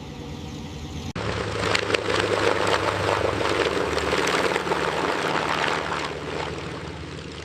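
Aircraft piston engines running with a steady drone. The sound jumps abruptly about a second in to a louder, rougher engine noise with crackle.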